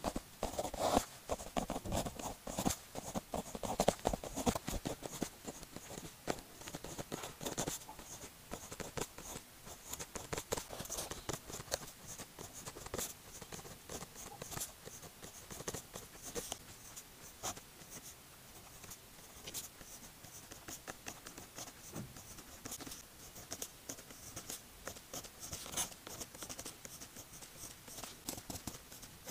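Pen nib scratching on paper while writing Chinese characters by hand, in quick irregular strokes with small ticks as the pen lifts and lands.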